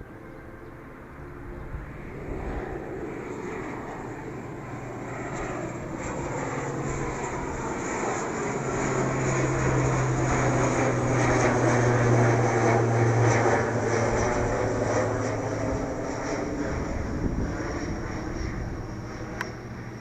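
ATR 72-600 twin turboprop at takeoff power on its takeoff roll: the engine and propeller noise builds to a peak about ten to fourteen seconds in, carrying a steady low propeller hum, then fades as the aircraft moves away.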